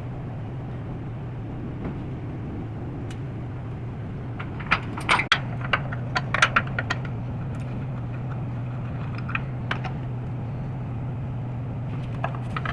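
Sharp metal clicks and clanks from steel floor jacks being worked under a split tractor, in a cluster about a third of the way in and a couple more later, over a steady low hum.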